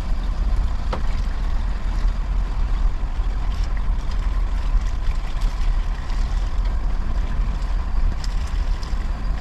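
Steady low rumble of engine and road noise inside the cab of a diesel Ford F-350 pickup on the move.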